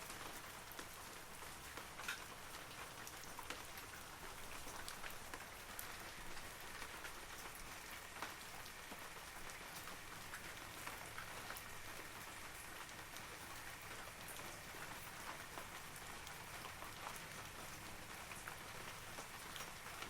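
Steady rain falling on forest trees, a continuous patter with many separate sharp drips of larger drops.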